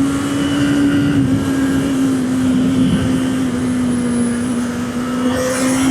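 Honda CB650R inline-four engine running at steady revs while riding, holding one almost constant note, with wind and road noise underneath.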